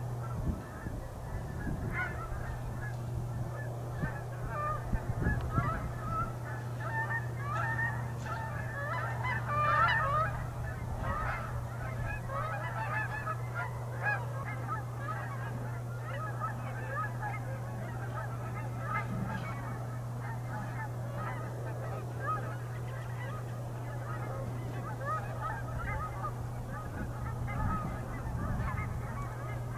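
A large flock of Canada geese and trumpeter swans honking and calling over one another without a break, busiest about ten seconds in, over a steady low hum.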